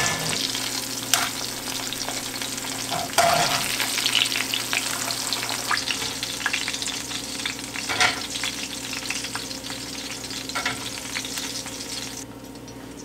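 Battered catfish pieces frying in hot oil in a cast-iron skillet, with a steady sizzle. Metal tongs knock against the pan a few times as the pieces are turned and lifted out. The sizzle drops away sharply near the end.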